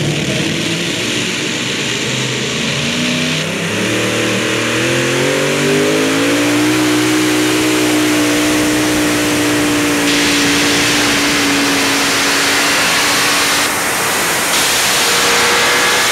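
A motor vehicle engine speeding up over a few seconds, holding a steady high pitch, then easing off a couple of seconds before the end, over a loud steady rushing noise.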